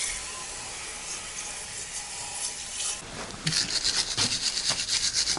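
A steady hiss, then from about three and a half seconds in, fast, even scrubbing strokes that grow louder.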